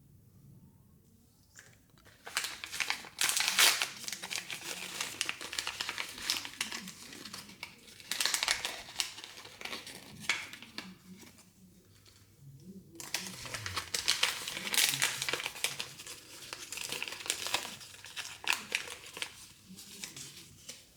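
Crinkly plastic wrapping of a Mini Brands surprise ball being crumpled and torn open by hand, in two long stretches with a short pause about halfway through.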